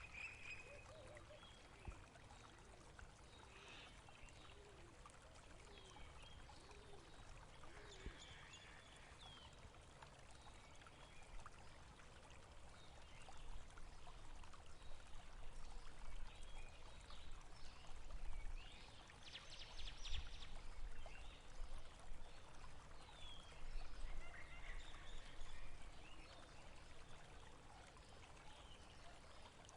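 Water running steadily in a stream, faint, growing somewhat louder in the middle, with scattered short high chirps over it.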